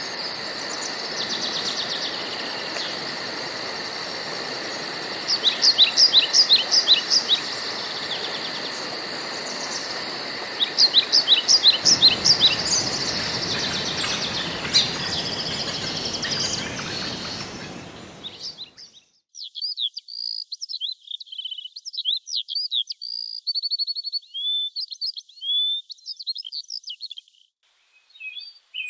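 Woodland birds chirping and singing, with quick runs of chirps about 6 and 11 seconds in, over a steady hiss and a fast, very high ticking. About 18 seconds in, the hiss and ticking fade out, leaving only clear, varied birdsong with short silences between phrases.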